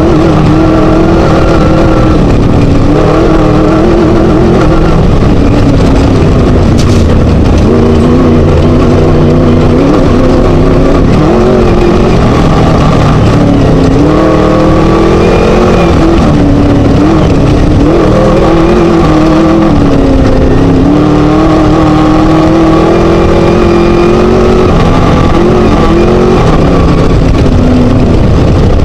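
Scat V4 engine of a Chenowth class 1 desert race buggy running hard at race pace, very loud, its pitch rising and falling repeatedly as the revs climb and drop through shifts and over rough terrain, over heavy rattling and road noise.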